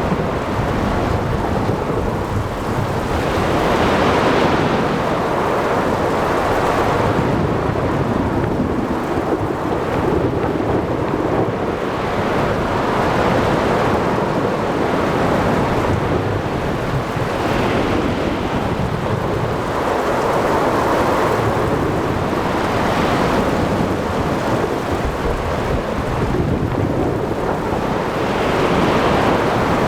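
Ocean thunderstorm ambience: steady rain and wind noise over breaking sea waves, with rumbles of thunder. The whole sound swells and eases every few seconds as waves surge and thunder rolls.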